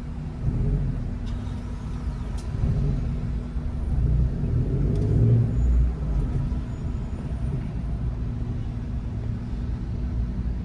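A car driving in traffic: steady low engine and road rumble, swelling louder for a couple of seconds midway.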